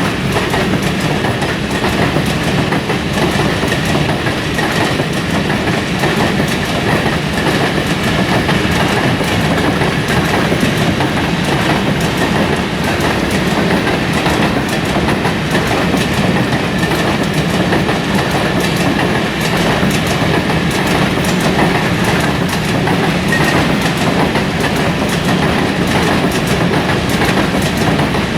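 Train rolling along the track, its wheels clicking steadily over the rail joints, loud and unbroken throughout.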